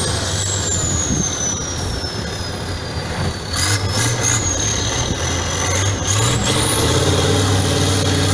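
Truck engine running, rising in pitch about seven seconds in as it revs. A thin high whine glides slowly down, then climbs again near the end.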